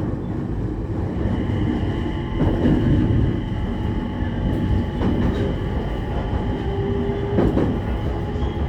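Abukuma Express local train running, with a steady low rumble and a faint hum, and wheels knocking over rail joints about every two and a half seconds.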